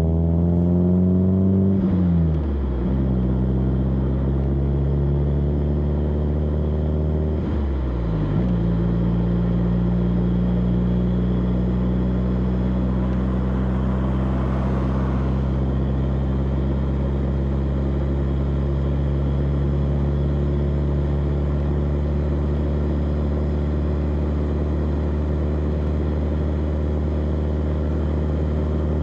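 Exhaust of a BMW E30 316i's four-cylinder engine, heard from the rear of the car: it pulls up through the revs and drops pitch with an upshift about two seconds in, climbs again, shifts up once more about eight seconds in, then settles into a steady cruise.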